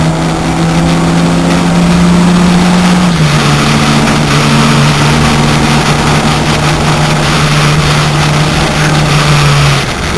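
VW Corrado's turbocharged 1.8-litre four-cylinder engine pulling hard under race load, heard from inside the cabin over wind and road noise. Its pitch climbs, then drops at a gear change about three seconds in, and it pulls steadily again before the note dips briefly near the end.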